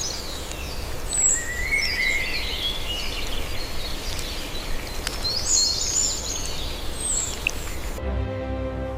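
Birds singing rapid, varied song phrases over a low steady rumble. About eight seconds in, the birdsong cuts off abruptly and music with sustained tones begins.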